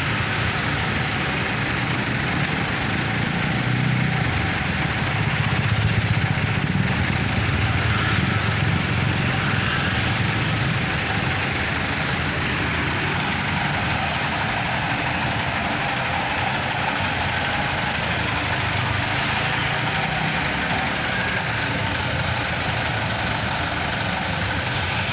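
Dense road traffic: the engines of trucks and buses running slowly and idling close by, a steady low hum that swells a little a few seconds in.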